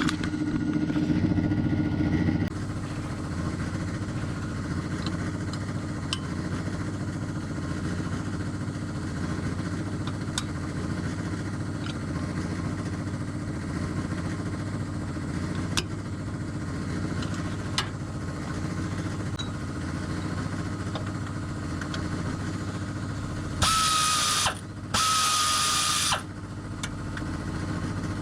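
A steady low mechanical hum, with a power tool whirring twice briefly near the end.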